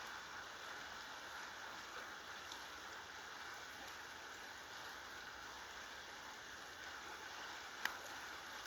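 Steady rushing of the Marumbi River running full and swollen. A single sharp click near the end.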